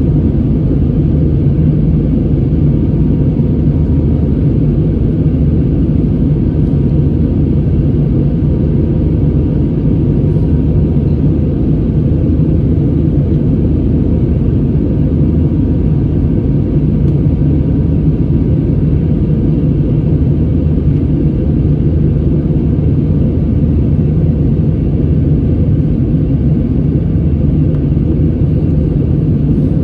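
Jet airliner heard from inside the passenger cabin in flight: a steady, deep rumble of engines and airflow with a low hum, holding even throughout.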